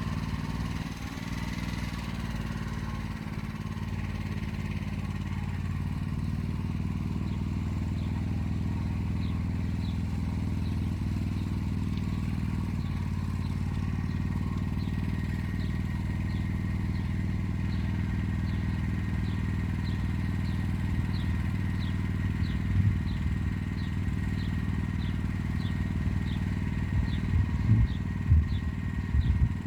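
Motor Sich walk-behind tractor's engine running steadily under load while it pulls an arrow-shaped hiller along a row, with a few louder knocks near the end. A short high chirp repeats about one and a half times a second through the second half.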